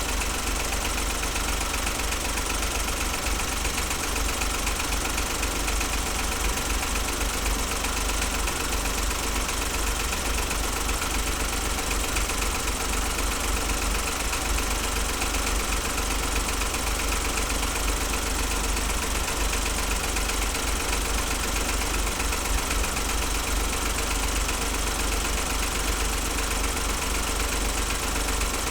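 2008 Smart ForTwo's 1-litre three-cylinder engine running steadily with an intermittent misfire, the engine note pulsing now and then.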